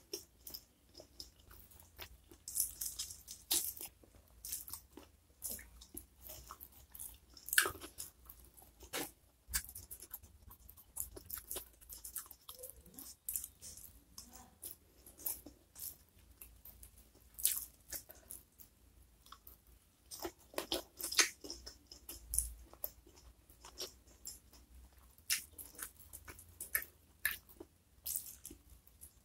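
Close-miked chewing of hand-fed mouthfuls of rice, fried chicken and greens, with many irregular crisp crunches and mouth clicks.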